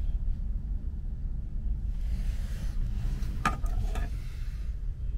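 Double-decker regional train running, a steady low rumble heard from on board. About two seconds in a hiss comes in and lasts until near the end, and a couple of sharp clicks sound in the middle of it.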